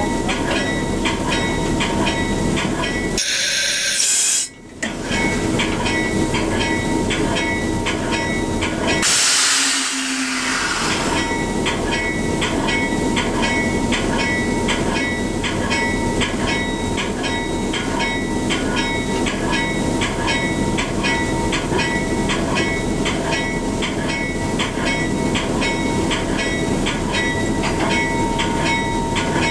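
A train running, a steady rumble and rush with a regular ticking about twice a second. The sound breaks off briefly twice, near 4 s and 10 s in.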